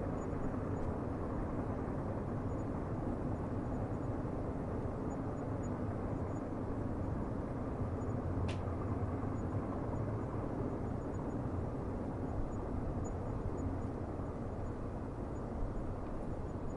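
Steady low rumble of a distant train running on the line at night, with one sharp click about eight and a half seconds in.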